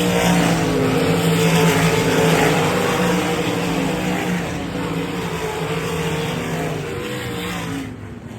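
305 sprint car V8 engines running hard at race speed on a dirt track, a loud steady engine sound whose pitch wavers slightly; it drops off sharply near the end.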